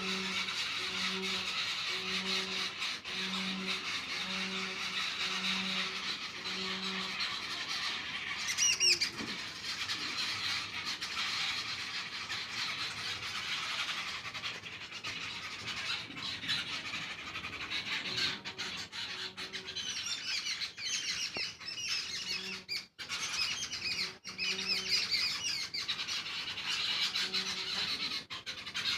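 A dense chorus of many birds chirping and squawking at once, with a loud sharp squeal about nine seconds in. A low hoot repeats about once a second for the first seven seconds.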